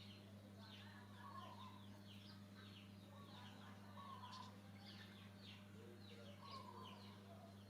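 Faint bird calls: many quick descending chirps, with a lower warbling call every couple of seconds, over a steady low hum.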